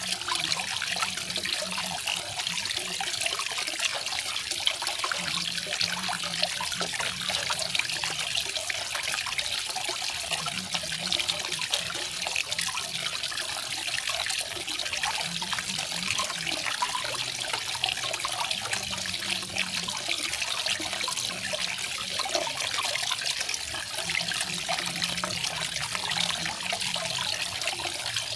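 Small garden waterfall: water falling and splashing steadily, with a fine trickling patter.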